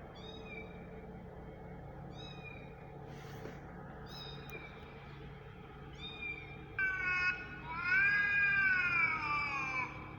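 Cat meowing: a few short, high mews spaced about two seconds apart, then from about seven seconds in, longer and louder meows that fall in pitch.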